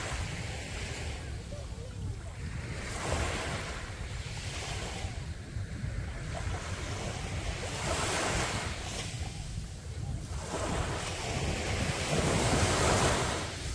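Sea waves breaking on a beach, one wash of surf swelling and fading every two or three seconds, the biggest near the end. Wind rumbles on the microphone underneath.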